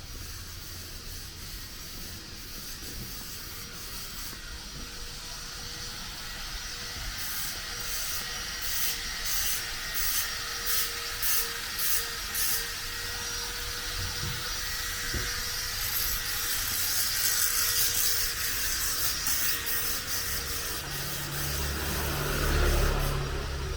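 City street ambience with a steady traffic hum. For several seconds a scraping sound repeats about twice a second, and near the end a motor vehicle passes close by with a low rumble.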